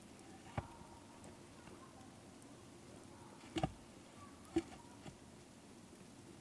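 Quiet background hiss broken by a few short, sharp knocks or cracks, one of them doubled.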